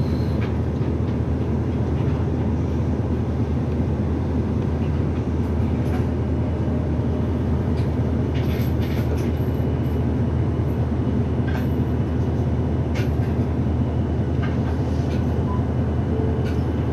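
Inside city bus No. 2202 under way: a steady low engine drone and road noise, with a few short clicks and rattles from the cabin.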